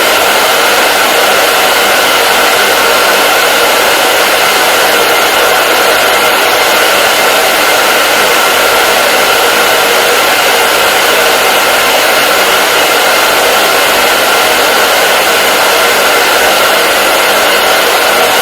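Hair dryer running steadily: an even rushing of air with a faint steady whine from the motor and fan.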